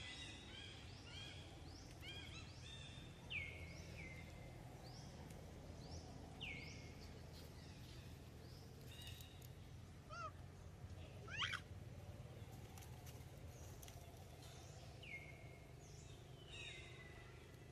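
Birds calling in the background: short whistles that fall in pitch, repeated every few seconds, with a brief flurry of higher calls about ten seconds in. Faint, over a steady low rumble.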